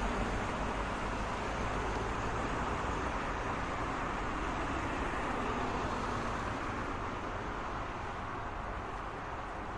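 Steady road traffic: a continuous wash of passing cars and tyre noise, easing off slightly toward the end.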